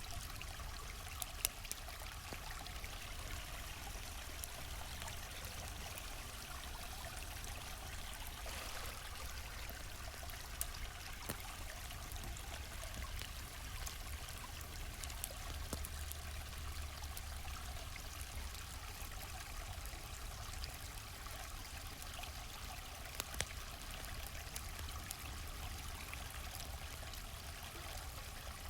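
Steady rush and trickle of a flowing stream, with a few sharp campfire crackles scattered through it.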